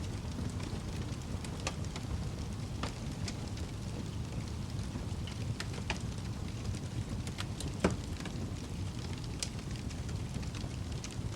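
Wood fire burning in a fireplace: a steady low rumble with irregular crackles and pops, one sharper pop about eight seconds in.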